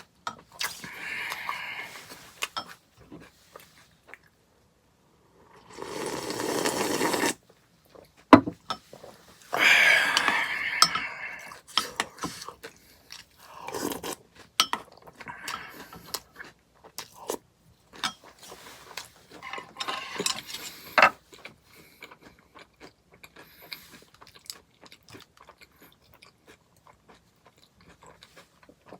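Close-miked eating of granola in a hot liquid: chewing and crunching, short clicks from the spoon and bowl, and a few louder noisy stretches of a second or two in the first half. Quieter scattered clicks in the second half.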